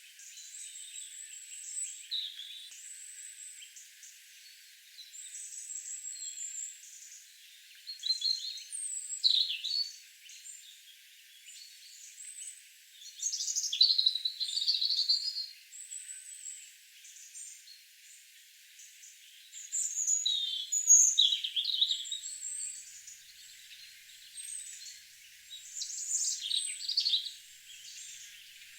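Several garden birds singing and chirping, their calls overlapping, with a few louder bursts of song and quieter gaps between.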